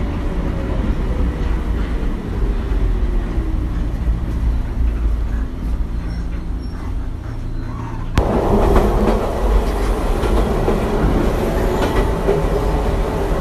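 Inside the carriage of the Umeboshi Densha, a Wakayama Electric Railway electric train, on the move: a steady rumble of wheels on rail and running gear, with a faint falling whine over the first few seconds. About eight seconds in, the noise suddenly gets louder and stays that way.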